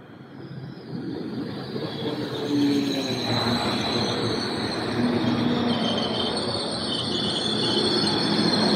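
A Transport for Wales diesel multiple unit running in along the platform, getting louder as it draws level and passes, with a low rumble and engine note. A high-pitched squeal sets in about two seconds in and holds steady.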